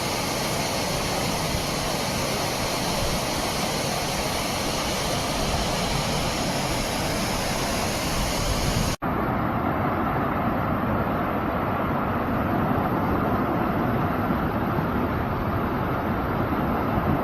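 Floodwater rushing down a wadi in a steady, loud roar of water, with a sudden cut about nine seconds in to another stretch of the same rushing flow.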